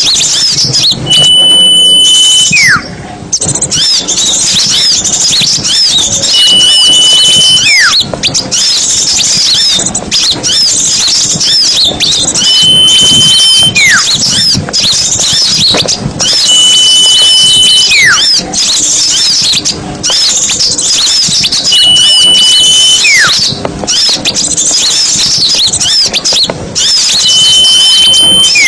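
Dense chorus of small songbirds chattering, with a repeating pair of clear whistles: a short steady high note followed by a whistle sliding downward, about every five to six seconds. It is a looped bird-lure call track used to draw small birds in.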